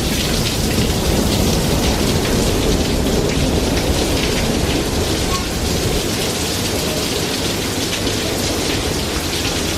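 Heavy rain pouring steadily during a thunderstorm, with a low rumble of thunder that is strongest in the first half and eases off after about six seconds.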